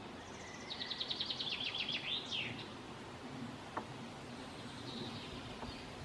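A bird's rapid trill of about two seconds: quick repeated high notes, falling slightly, ending in a short down-slurred flourish. Fainter single bird notes follow near the end.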